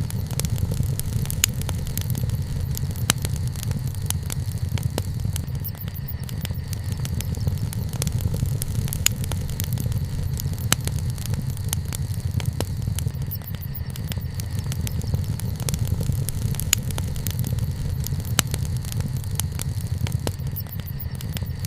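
Wood fire burning, with frequent sharp crackles and pops from the burning wood over a steady low rumble.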